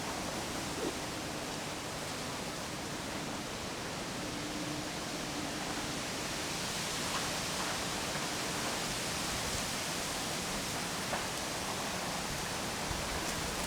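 Strong wind blowing through trees and foliage: a steady rushing noise.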